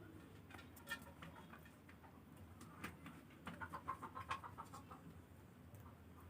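Faint calls from domestic birds: a quick run of short, repeated notes about halfway through, with a few soft clicks before it.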